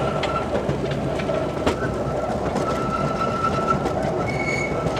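An open passenger car of a small park train rolling along, heard from on board: a steady rumble and clatter of wheels on track, with a thin steady whine over it, a few sharp clicks, and a brief higher tone near the end.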